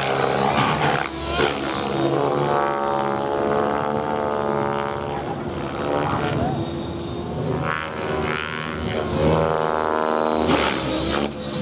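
Radio-controlled 3D helicopter flying aerobatics: a buzzing rotor and drivetrain whine whose pitch sways up and down as it manoeuvres.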